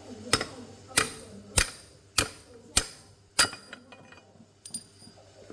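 Hammer striking metal: six hard, evenly spaced blows about 0.6 s apart, each with a short metallic ring, followed by a few lighter taps.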